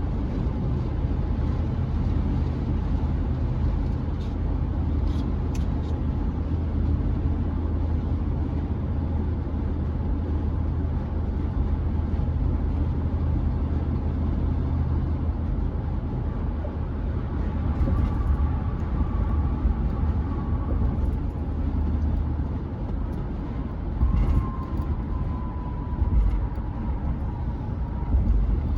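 Chevrolet C10 pickup driving at road speed, heard inside the cab: a steady low engine and road drone, with a couple of brief bumps late on.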